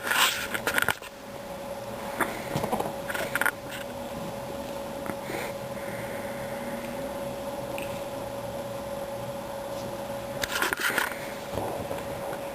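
Cats scuffling: a few short bursts of scratching, scraping and clicking from claws and bodies, over a steady electrical hum.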